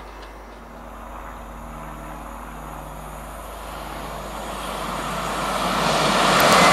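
A train approaching along the line, its rushing noise growing steadily louder over several seconds until it reaches the platform.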